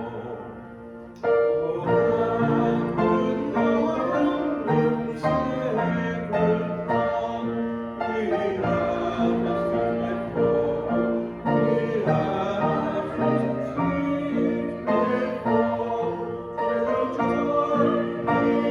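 Congregation singing a hymn with piano accompaniment. A brief lull in the first second, then the next phrase comes in together.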